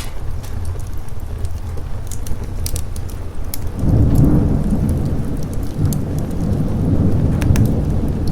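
Steady rain with a low rumble, and a roll of thunder that swells about four seconds in and keeps rumbling. Scattered sharp crackles sound over it.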